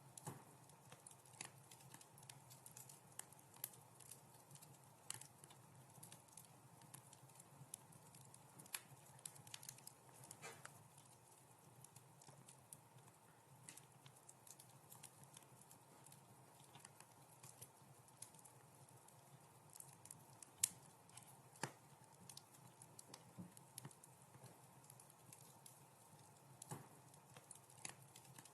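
Fireplace fire crackling softly: scattered sharp pops and snaps over a faint steady hiss, with one louder pop about twenty seconds in.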